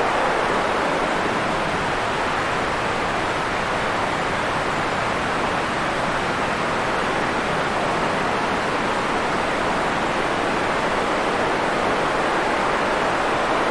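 Steady white noise: an even, unbroken hiss with no events or rhythm, fuller in the middle and softer in the highs.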